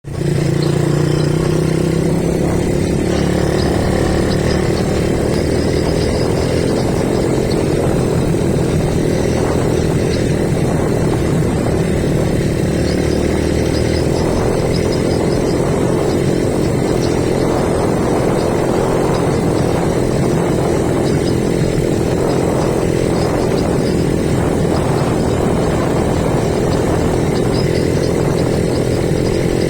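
Engine of a small motor vehicle running steadily under way, its pitch shifting a little with the throttle.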